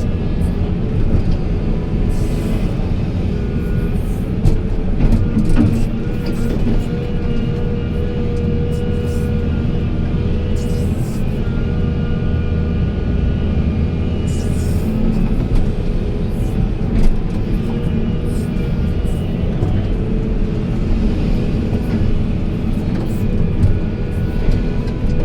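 Heavy diesel machinery rumbling steadily, mixed with background music.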